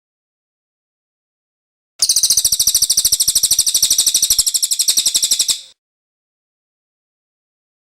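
Cililin bird song: one rapid trill of evenly repeated high notes, many to the second, starting about two seconds in and lasting about three and a half seconds.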